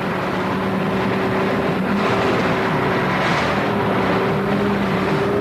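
Ural heavy off-road truck's diesel engine running steadily as the truck drives, with a constant low hum over a noisy mechanical rumble.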